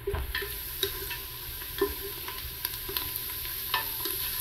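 Chopped onions and whole spices sizzling in hot oil in a pot, stirred with a wooden spatula that scrapes and taps against the pot at irregular moments.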